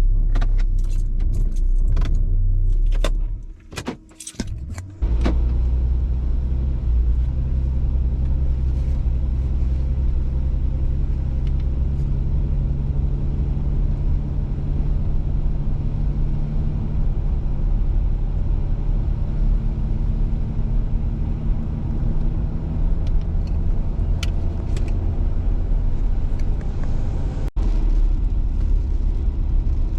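A Porsche Cayenne towing a small travel trailer, heard from inside the cabin: a steady low engine and road hum at slow driving speed. In the first few seconds there is a flurry of sharp clicks and rattles, with a brief dip in the hum.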